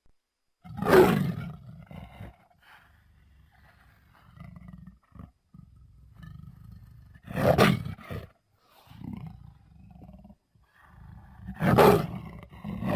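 Jaguar roaring: three loud, short roars, about a second in, midway and near the end, with quieter low grunts and rumbles between them.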